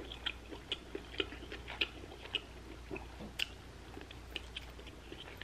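Close-up chewing of a mouthful of noodles and pork bulgogi: quiet, wet mouth clicks and smacks at an irregular pace, a few every second.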